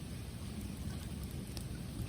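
Bonfire of bamboo and wood burning: a steady low rush with a few faint crackles.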